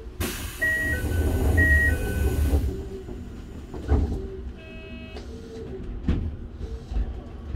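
Inside a stopped commuter train car: a loud hiss of air for about two and a half seconds, during which a two-note electronic tone (high, then low) sounds twice. A short buzzing tone follows about five seconds in, over the low hum of the standing train.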